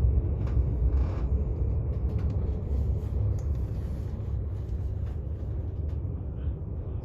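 Low, steady rumble of a moving train, with a few faint clicks and knocks, easing off slightly in loudness.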